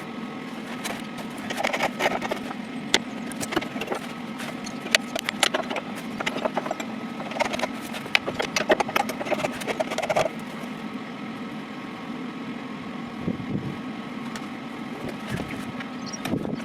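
A steady low machine hum with many irregular clicks and knocks over the first ten seconds or so, then fewer.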